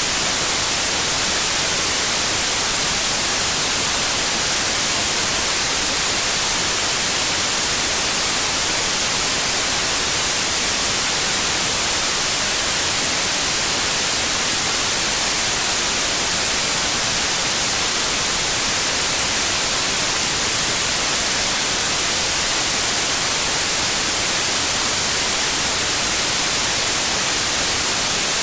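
Steady white noise: an even hiss, strongest in the highs, with no changes in level.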